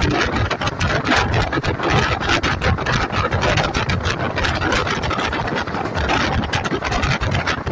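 Indian Railways express train running, heard from inside a passenger coach: a steady rumble of wheels on the track with constant rattling clicks.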